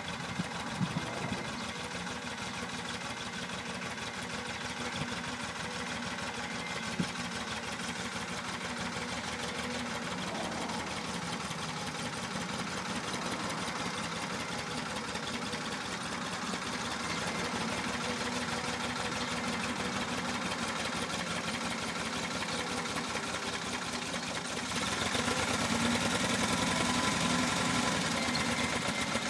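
Tractor engine running steadily, growing louder about 25 seconds in.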